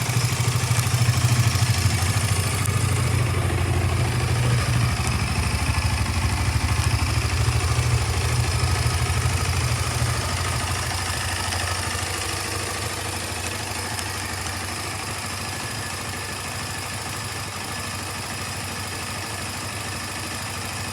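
KTM 250 Adventure's single-cylinder four-stroke engine idling steadily, a little louder for the first ten seconds or so and then settling slightly quieter.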